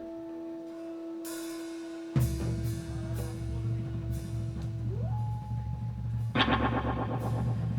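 A live band beginning a song: a held note rings over light cymbal strikes, a low bass tone comes in about two seconds in, the held note slides up in pitch near five seconds, and strummed chords join near the end.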